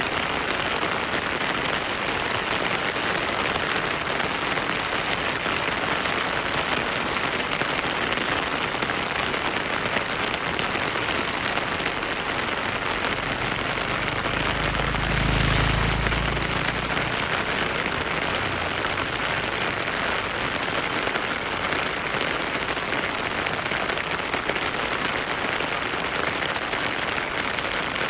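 Heavy rain falling steadily, a dense even hiss of drops. A low rumble swells briefly about halfway through.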